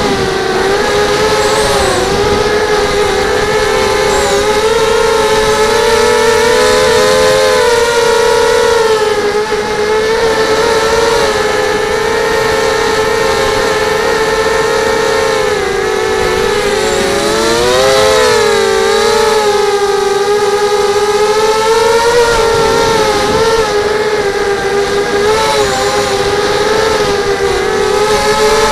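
FPV quadcopter's electric motors and propellers whining loudly and steadily, the pitch rising and falling as the throttle changes, with the widest swing about two-thirds of the way through.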